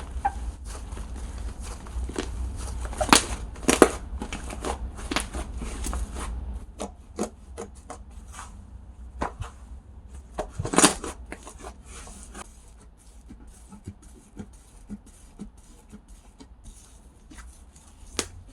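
Slime being played with by hand: irregular sticky clicks and pops. They come thick in the first half and thin out and grow quieter in the second.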